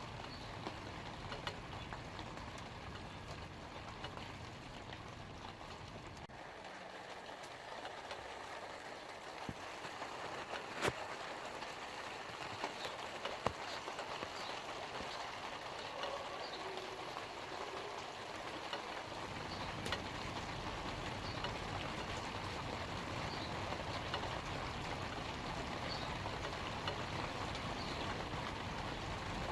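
Light rain falling steadily on leaves, an even patter with a few sharper single drops near the middle. A low rumble beneath it fades out for a stretch and comes back later.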